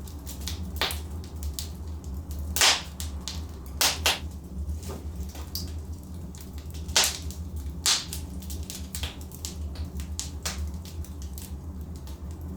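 Wood fire burning in a fireplace: logs crackling with scattered sharp pops, the loudest about two and a half seconds in and again about seven seconds in, over a steady low rumble.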